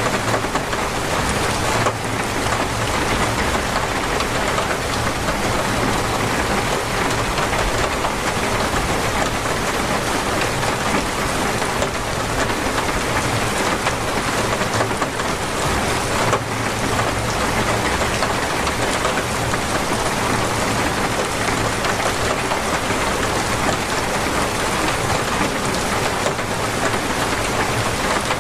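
Heavy, torrential rain falling and pattering on surfaces, a steady dense rush.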